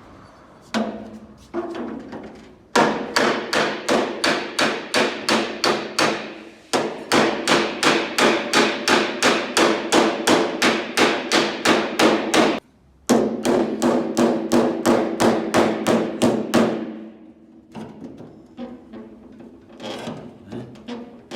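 Hammer tapping rapidly on a steel punch held against the sheet-metal edge of a car door, about four ringing metallic strikes a second, to work out small dents. The strikes come in three long runs with short breaks, and fainter taps near the start and end.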